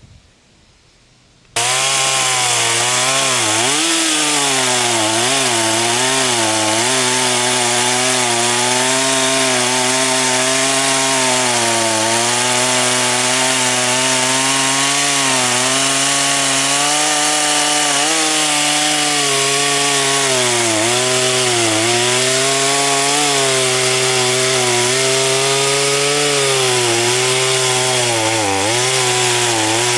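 Two-stroke chainsaw cutting firewood at full throttle, starting abruptly about a second and a half in; its engine pitch sags repeatedly under the load of the cut and recovers.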